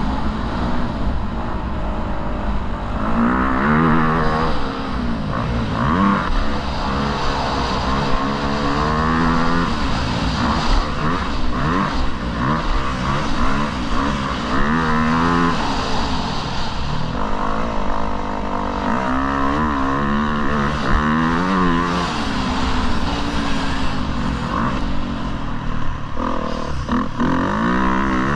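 Motocross bike engine being ridden hard, its pitch climbing and dropping again and again as the throttle is worked.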